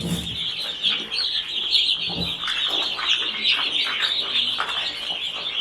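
A brood of young chicks peeping continuously, many short high chirps overlapping into one dense chorus.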